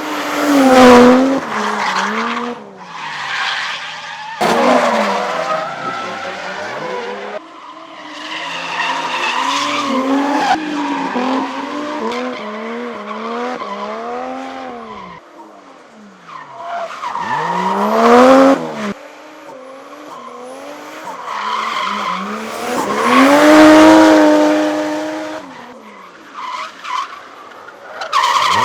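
A drift car's engine revving up and down again and again while the tyres skid and squeal through slides. The sound comes in several short clips joined by sudden cuts.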